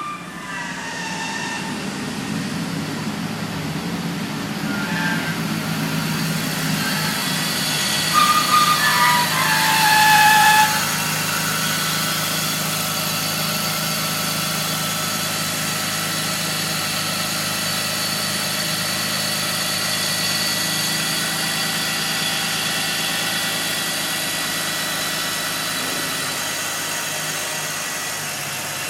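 BMW 330Ci running, its straight-six engine humming steadily under a high-pitched screech of several tones. The screech wavers and slides in pitch, and is loudest from about eight to eleven seconds in.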